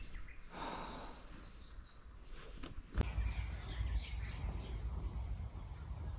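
Birds chirping in short falling calls over steady outdoor background noise. There is a brief rustle about half a second in, and a low rumble comes in at about three seconds.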